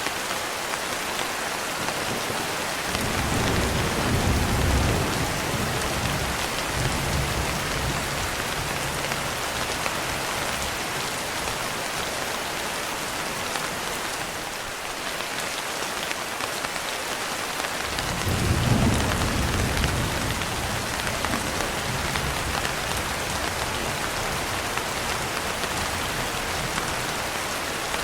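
Steady rain falling, with two long rolls of low thunder, one a few seconds in and another a little past the middle.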